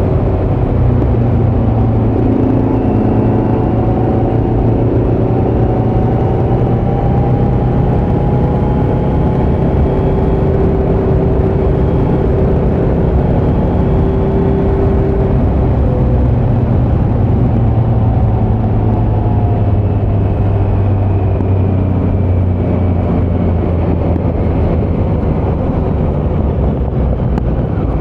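2018 Kawasaki Z900's inline-four engine running through a Leo Vince muffler with no dB killer, heard from the saddle while riding at a fairly steady pace. The engine note holds steady, with small rises and dips in pitch as the throttle changes.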